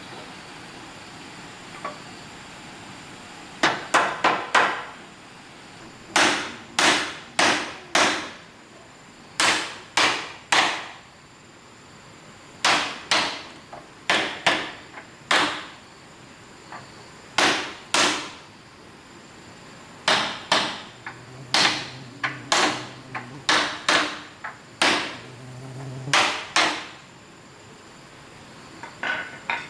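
A hammer striking, in short runs of two to four sharp blows with pauses between, each blow ringing briefly.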